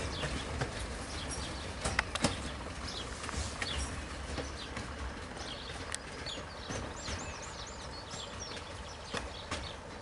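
Narrow-gauge train rumbling away, its wheels clicking over the rail joints and points, slowly fading. A bird gives a quick run of chirps about seven seconds in.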